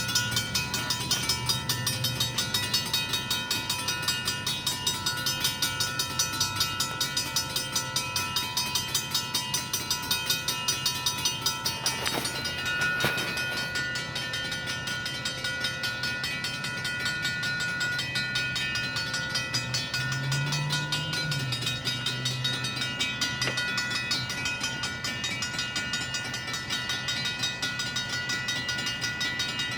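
Railroad crossing signal bells ringing: a Safetran and a Griswold mechanical bell striking in a fast, steady rhythm while the crossing is activated. A couple of knocks come about twelve and thirteen seconds in, after which the strikes sound softer.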